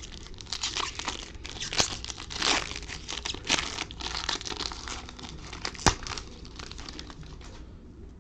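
Trading-card pack wrapper being torn open and crinkled by hand: a dense run of crackling and tearing that dies away near the end, with one sharp click about six seconds in.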